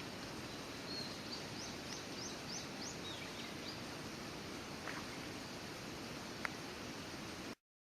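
A bird gives a quick run of five or six short, high, rising chirps about a second in, followed by a few falling notes, over steady outdoor background noise. The sound cuts off abruptly near the end.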